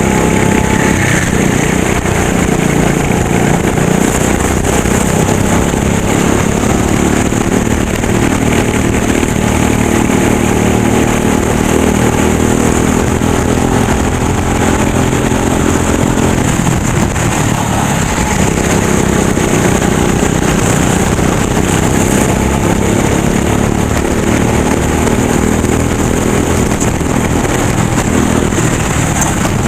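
Racing go-kart engine running at speed, its pitch rising and falling as the throttle opens and closes through the corners.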